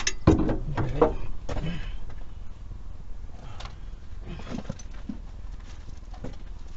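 Scattered light knocks and clicks of hand tools and metal engine parts being handled, busiest in the first couple of seconds and fainter after that.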